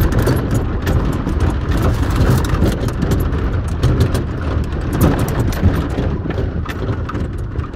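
Suzuki Samurai heard from on board while driving over rough dirt: a steady low rumble of engine and tyres with constant rattling and many knocks from the bumps.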